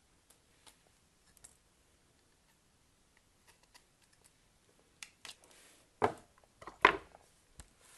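Soap packaging being handled and opened by hand: faint scattered clicks and taps, then a few sharper crinkling, rustling sounds, the loudest two about six and seven seconds in.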